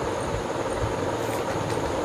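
Steady background noise with no speech, at a fairly constant level.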